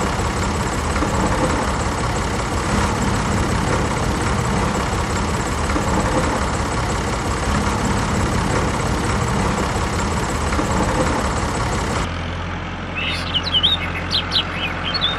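Small electric motor of a miniature DIY tractor running steadily. About twelve seconds in the noise cuts off suddenly, leaving a low steady hum and several short bird chirps.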